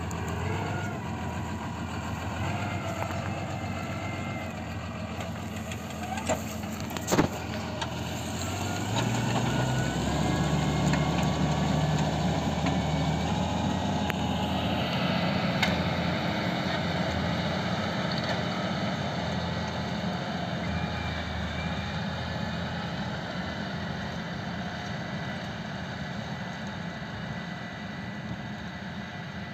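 CLAAS Arion 620 tractor engine running steadily, its note rising and getting louder about nine seconds in. There is a sharp click about seven seconds in, and the engine slowly grows fainter towards the end.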